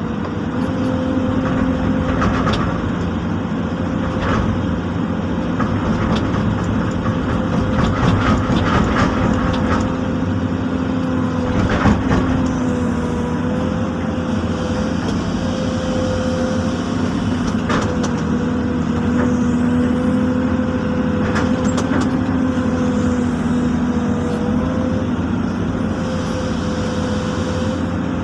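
Excavator's diesel engine running steadily, with a sharp knock about twelve seconds in.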